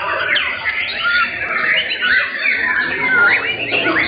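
Many caged songbirds singing at once: a dense, overlapping chorus of whistled notes, quick rising and falling phrases and chattering calls.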